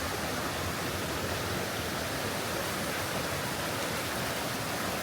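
Steady, even rush of flowing water from a rainforest creek.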